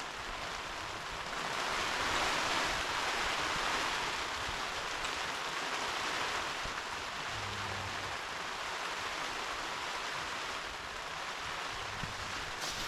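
Steady rain pouring down, a dense even hiss that swells a little about two seconds in.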